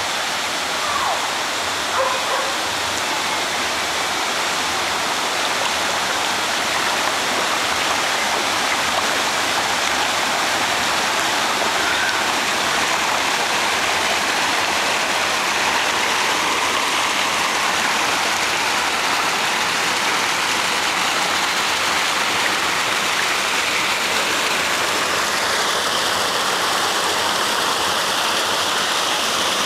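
Steady rushing water, like a stream or small waterfall, with a few short, faint higher sounds in the first few seconds.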